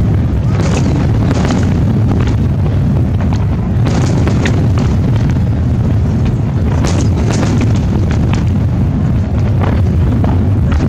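Aerial firework shells bursting in quick succession: a continuous low booming rumble with many sharp cracks over it.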